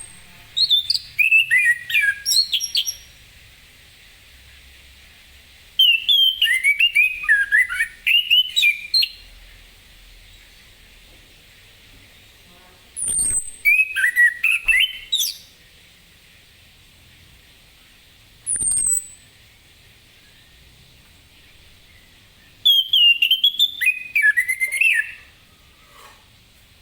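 Orange-headed thrush singing loudly in bursts: four phrases of rapid, varied whistled notes, each a couple of seconds long and a few seconds apart. Between the phrases come single high, sharply falling notes.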